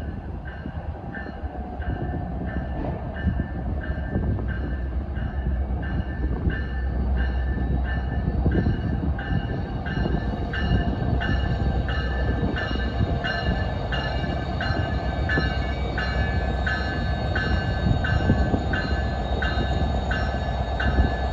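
NJ Transit diesel locomotive approaching with its bell ringing steadily about twice a second, growing louder over the low rumble of the engine and wheels.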